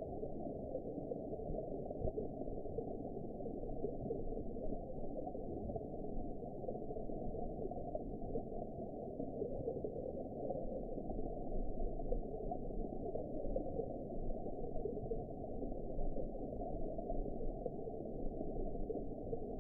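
Steady, muffled underwater ambience: a deep, even wash of water noise with nothing above a low pitch, gently fluctuating, with no distinct events.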